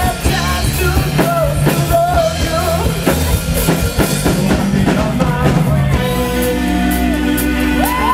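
Live rock band playing loud, with a full drum kit and a lead voice or melody line over bass and guitar. About six seconds in, the drums drop back and held notes ring on.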